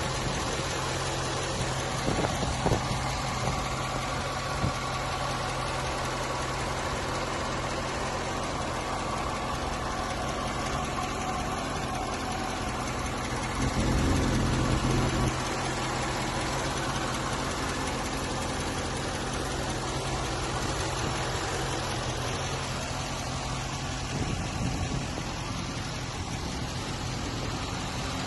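2013 C6 Corvette V8 idling steadily, with a ticking that the prospective buyer asks about: normal, a lifter, a belt, or just a cold engine. The engine sound swells briefly about halfway through.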